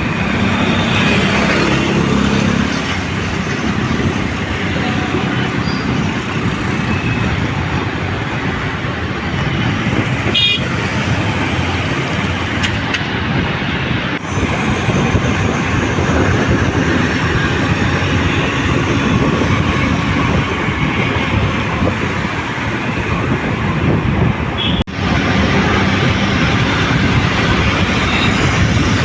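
Steady traffic and road noise heard while riding along a road, a dense rush of passing vehicles and wind. A short high beep like a horn toot sounds about ten seconds in.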